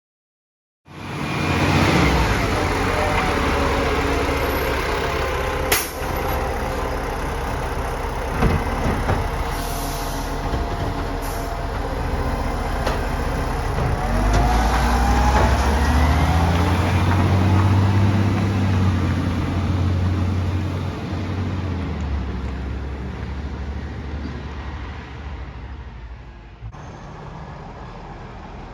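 Garbage truck engine running close by, its note rising and growing louder around the middle as it pulls away under power, then fading off. A few sharp knocks are heard along the way.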